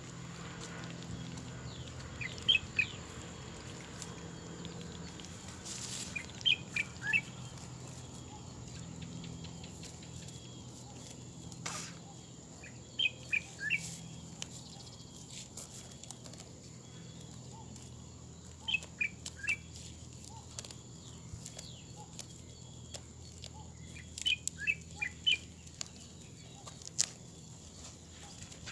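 A bird calling outdoors, repeating a short phrase of three or four quick high notes every five or six seconds. A few faint clicks come in between.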